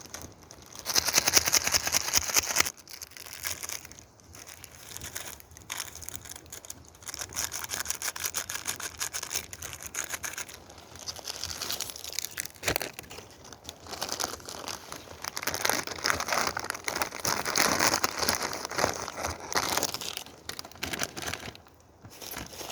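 Wood fire crackling and popping, a dense run of small snaps that swells and fades, with a loud spell about a second in and another past the middle.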